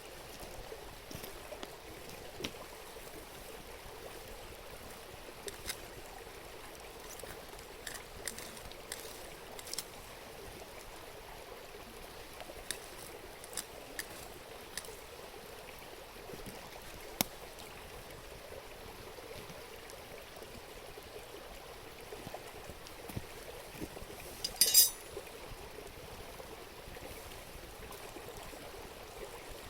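Steady murmur of a flowing river, with scattered small pops from a wood bonfire and one louder sharp snap near the end.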